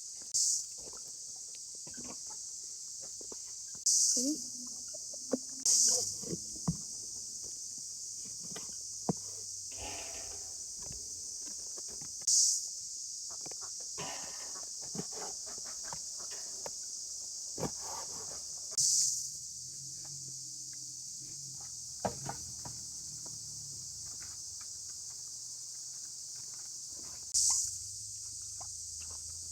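Steady high-pitched chirring of insects, with short louder swells every few seconds, over scattered light knocks and rustles from handling and footsteps.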